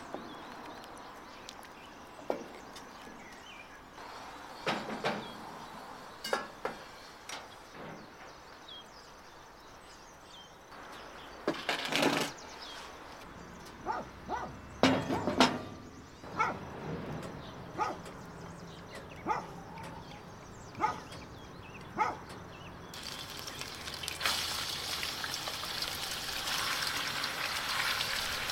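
Scattered knocks and clatters of cooking work at a cast-iron wood stove, loudest in a cluster a little past the middle. Near the end a steady sizzling starts as raw chicken pieces are slid off a wooden board into a hot wok and begin to fry.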